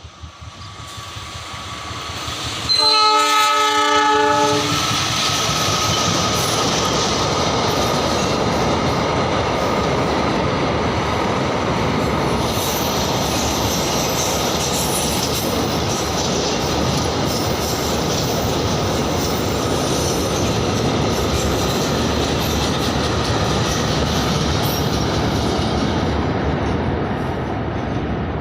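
A train approaches and sounds its horn once, a chord held about a second and a half, about three seconds in. It then passes close by with a loud, steady rumble and wheel clatter on the rails for over twenty seconds, easing off near the end.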